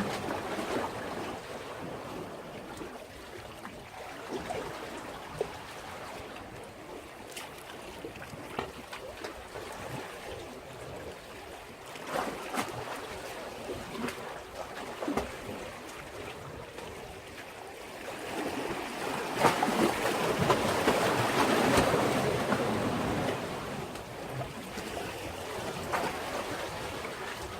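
East Sea waves washing against a breakwater, a steady wash with many small splashes. A larger wave surges in about nineteen seconds in and dies away a few seconds later.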